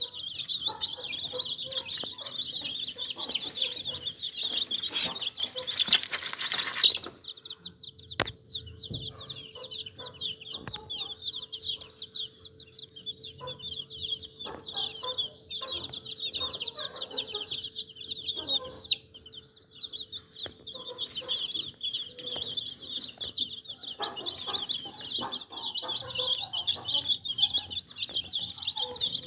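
Many baby chicks peeping at once, a dense, continuous stream of high-pitched cheeps, with scattered light taps underneath.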